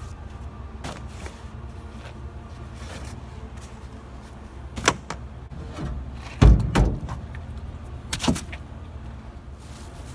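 Knocks and thumps of a paddle against a canoe's hull, about every two seconds with paddle strokes, the loudest a heavy double thump about six and a half seconds in, over a steady low rumble.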